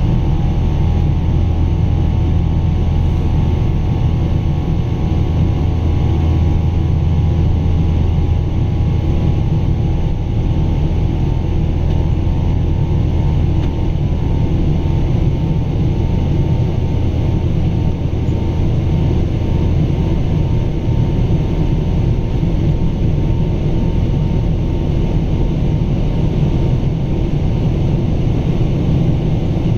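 Boeing 777-200's Pratt & Whitney PW4000 turbofan engines running steadily as a loud, even low rumble with a faint whine on top that fades slowly.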